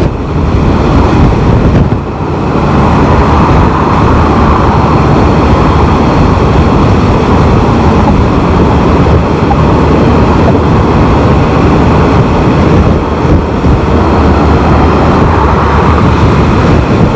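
Can-Am Spyder three-wheeled motorcycle riding at road speed: steady, loud rush of wind and road noise over the engine, with a brief dip about two seconds in.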